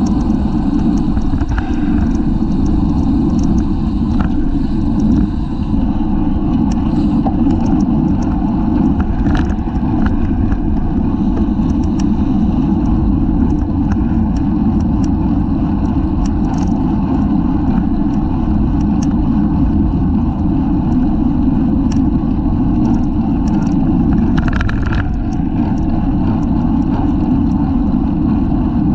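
Steady wind rumble on a bicycle-mounted camera's microphone while riding at speed, with scattered small clicks and rattles.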